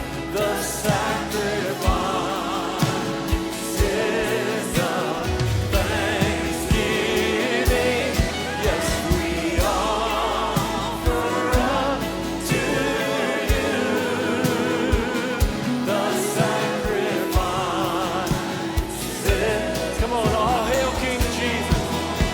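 Live contemporary worship song: singing voices over a band, with a regular drum beat.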